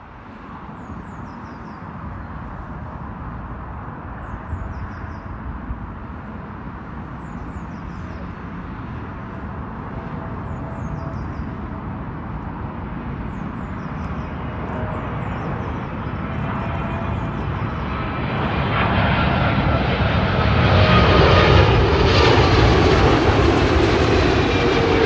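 Boeing 777's twin jet engines on landing approach, a rumble that grows steadily louder as the airliner comes in low overhead. It peaks near the end, and its whine drops in pitch as the jet passes over.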